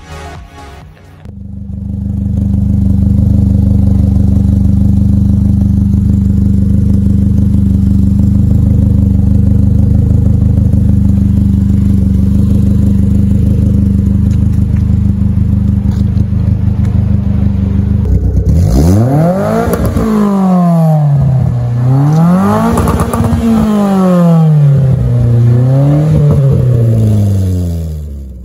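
A 2000 Mitsubishi Lancer's 1.5-litre four-cylinder engine idling steadily through its modified exhaust, then revved three times near the end, each rev rising and falling in pitch.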